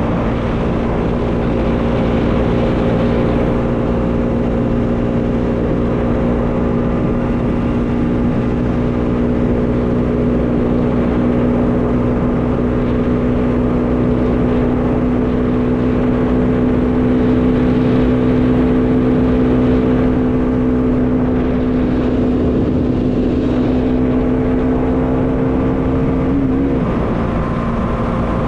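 Bajaj Dominar 400 single-cylinder motorcycle engine running at a steady cruise, its pitch creeping slowly upward, with a brief wobble and dip in pitch about 26 seconds in. Wind rushes over the rider's microphone throughout.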